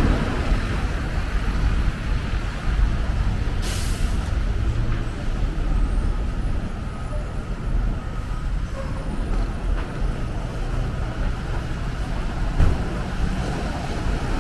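Street traffic dominated by a heavy vehicle's engine rumble, with a short hiss of air brakes releasing about four seconds in.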